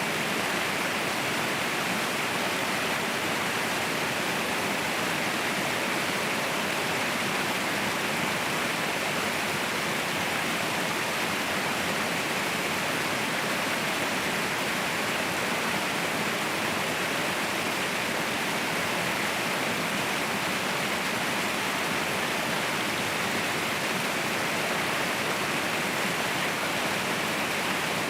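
Waterfall rushing steadily, a constant, even roar of falling water with no breaks or changes.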